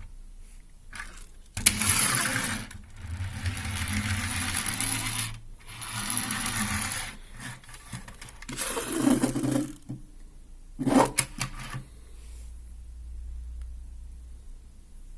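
Friction-motor (inertia) toy tram whirring as it is pushed and rolls: the flywheel and plastic gears spin up in several gritty bursts, two long and two short, with a sharp click about a second and a half in.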